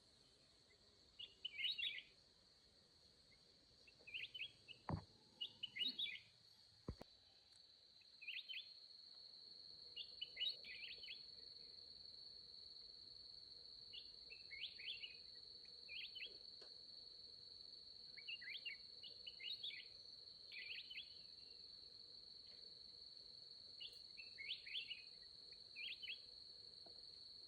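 A small bird chirping in short clusters every second or two over a steady high insect buzz. Two faint knocks come about five and seven seconds in.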